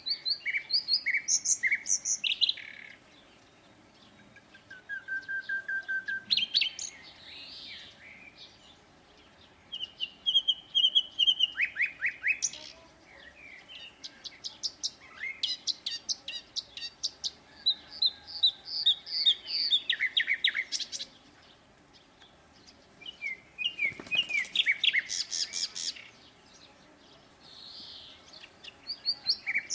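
Songbirds singing in varied phrases of rapid high chirps and trills, a new phrase every few seconds with short pauses between.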